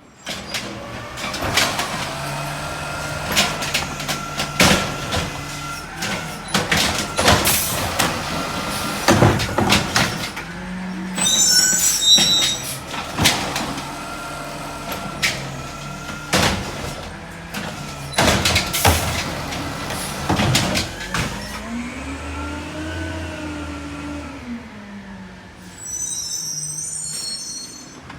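Heavy truck running with many sharp clanks and bangs throughout, and its engine pitch rising and falling about 22 seconds in.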